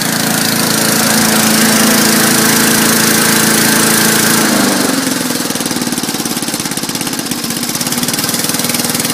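Small single-cylinder engine of an old lawn mower, freshly repaired, running steadily, then dropping to a lower speed about halfway through.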